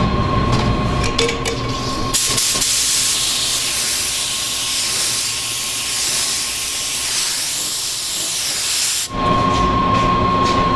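Machinery running with a steady whine, broken about two seconds in by a loud, even hiss, like a jet of air or steam, that lasts about seven seconds. The hiss cuts off abruptly and the machine hum and whine come back.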